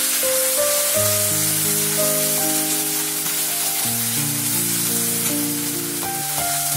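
Cumin paste sizzling as it fries in hot oil in a black wok with whole spices. Background music of long held notes plays over the sizzling.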